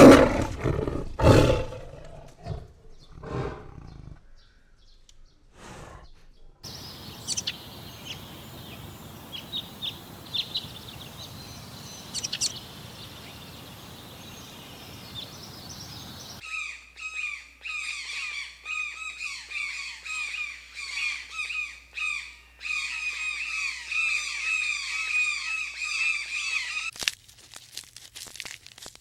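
A run of animal sound clips: loud roars in the first few seconds, then scattered bird chirps over a steady outdoor hiss, then about ten seconds of dense, rapid, repeated bird calls that stop abruptly.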